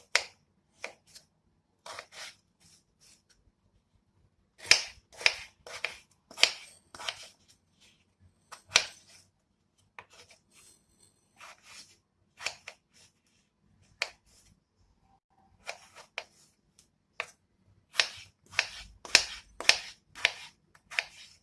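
Kitchen work sounds: sharp clicks and knocks of utensils and dishware being handled, coming in irregular clusters, densest about five seconds in and again near the end.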